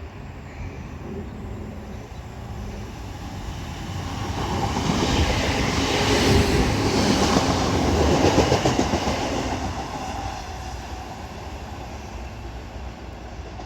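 Northern Class 769 multiple unit passing through the station slowly. It grows louder from about four seconds in, is loudest in the middle, then fades away.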